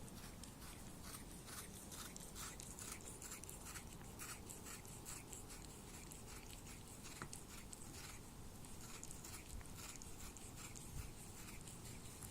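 A cat chewing and licking watermelon: a faint, fast run of small clicks, about three a second.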